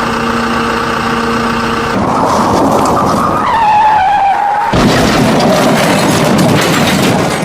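Vehicle sound effects: a steady multi-tone sound for about two seconds, then a skid with a wavering squeal, then a sudden loud rough noise from about two-thirds of the way in.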